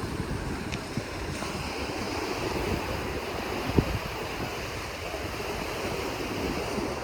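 Sea waves washing on the shore, with wind gusting over the microphone. A short thump about four seconds in.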